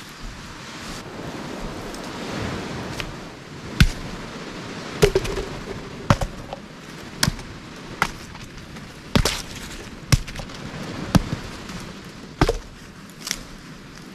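Whole coconuts dropping one after another, about one a second, each landing with a sharp knock as it hits the ground and the other nuts. Rustling comes before the first one lands.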